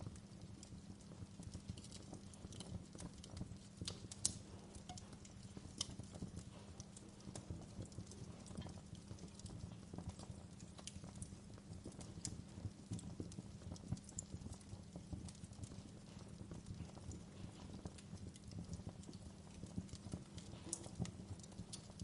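Wood fire crackling: a constant scatter of small pops and ticks over a low steady rumble, with a few sharper pops, the loudest about four seconds in.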